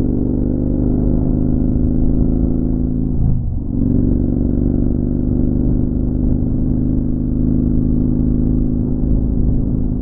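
Motorcycle engine running steadily under way, with a brief dip in the engine note about a third of the way in, as during a gear change, before it picks back up.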